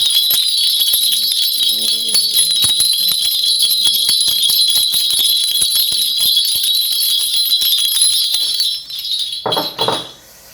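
A Korean shaman's bell rattle (a cluster of small brass bells on a handle) is shaken continuously in a dense jingle. It stops about nine seconds in.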